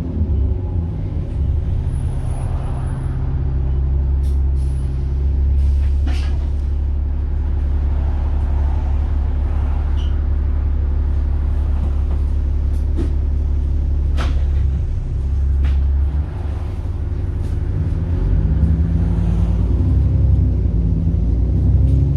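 Diesel bus engine heard from on board, a steady low drone under way, with a few short sharp clicks or rattles and a brief dip in level about two-thirds of the way through.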